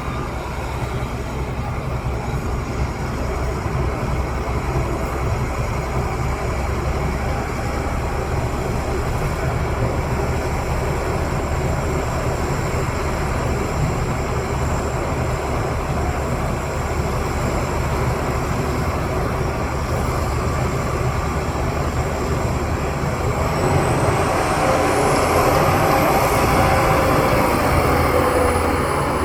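Heavy diesel earthmoving machinery running steadily with a continuous engine rumble. About three-quarters of the way through it gets louder as an engine works harder, and a high-pitched whine rises.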